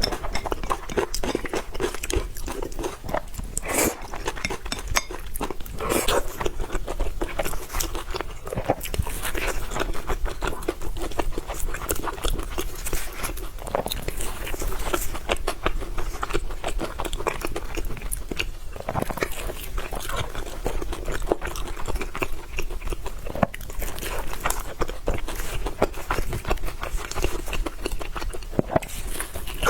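Close-miked eating: continuous chewing and biting, with many small crunches and wet mouth clicks.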